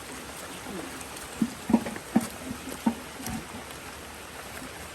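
Steady hiss of rain and flowing river water, with a cluster of short knocks and thumps from about a second and a half to three and a half seconds in.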